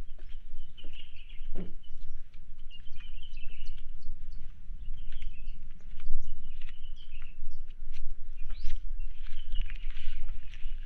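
Small birds twittering in short runs of high chirps every second or two, with one rising whistle about nine seconds in, over a steady low rumble.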